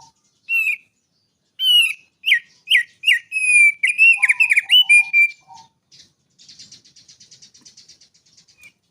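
A songbird singing: a run of loud, clear whistled notes and quick slurs, then a fainter, dry, rapid trill of about ten notes a second.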